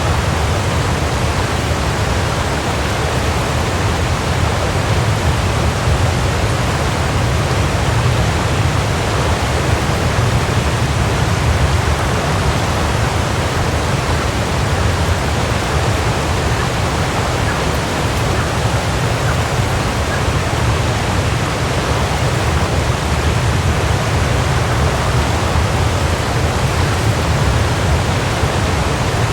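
Waterfall: a steady, even rush of falling water with a deep low rumble underneath.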